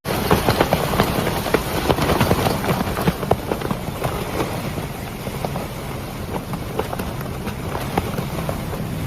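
Thunderstorm rain and wind: a dense rushing noise with many sharp taps close to the microphone, loudest in the first few seconds.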